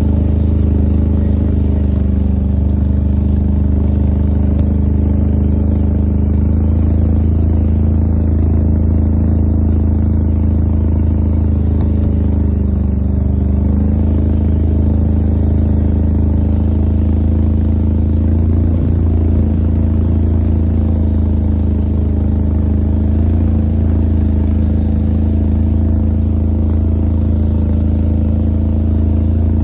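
ATV engine running at a fairly steady speed while pulling uphill: a loud low hum with steady overtones, stepping slightly in pitch a couple of times.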